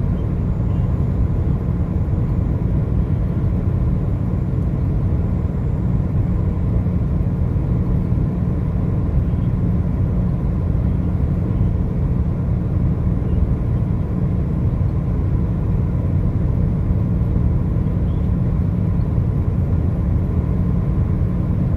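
Steady low rumble of a moving motor vehicle, engine and road noise without change.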